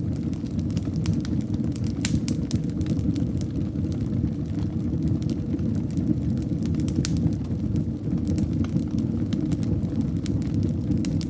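Fire in a fireplace crackling: frequent sharp pops and snaps over a steady low rumble.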